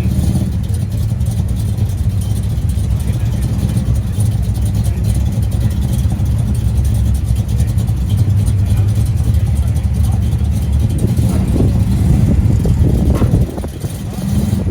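Car engine running with a steady low rumble. The sound drops briefly near the end, then comes back.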